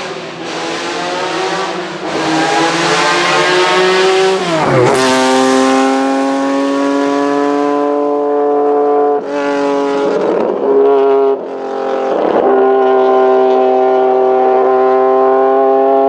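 Historic racing car engine at high revs, its note rising as it approaches, then dropping sharply in pitch as the car passes about five seconds in. The engine note then holds steady, cut off briefly twice as the car carries on up the hill.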